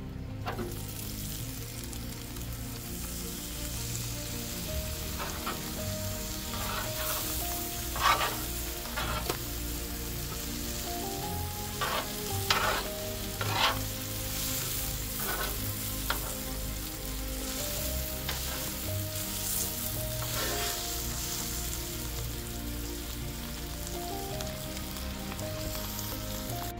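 Steak and sliced potatoes sizzling steadily on a two-burner propane flat-top griddle. A few sharp clicks stand out, once about 8 seconds in and several between 12 and 14 seconds.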